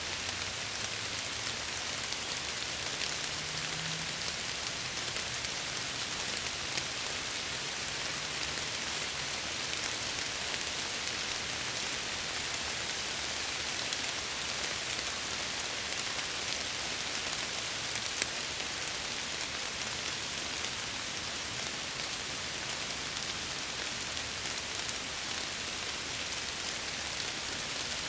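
Steady rain falling, with many small drop ticks against window glass. A single sharper drop tick stands out about eighteen seconds in.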